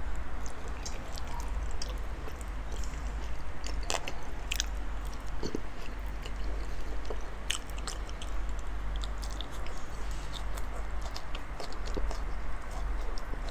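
A man chewing a big mouthful of raw salmon dipped in wasabi, with scattered wet mouth clicks throughout, over a steady low hum.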